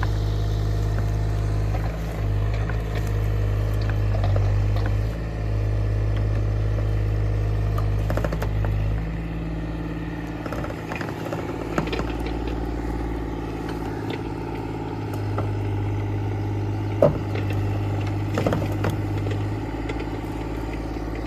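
Excavator's diesel engine running steadily, its hum shifting up and down a few times, with a few sharp metallic clanks, the loudest about three quarters of the way through.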